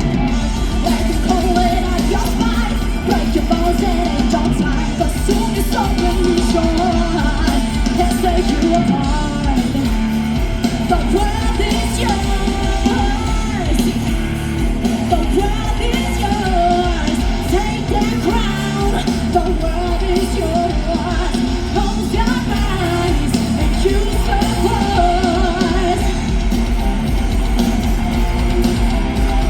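Live rock band playing loudly: electric guitars, bass and drums, with a voice singing over them.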